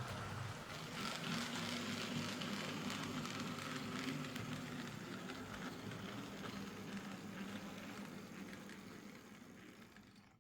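Hornby OO-gauge Class A4 model locomotive running on the track: a steady whirring hum of its motor with wheel and rail noise, growing fainter over the last few seconds.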